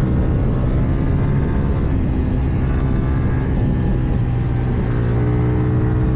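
KTM Duke 790 parallel-twin engine with an Akrapovič exhaust, heard under way from the rider's position. Its note falls off a little about two seconds in, then climbs back steadily.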